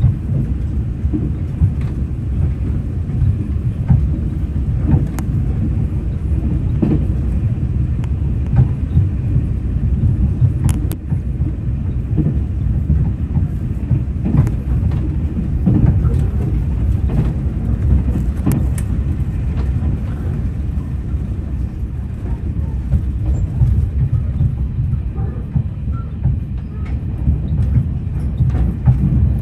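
Train running: a loud, steady low rumble with scattered faint clicks.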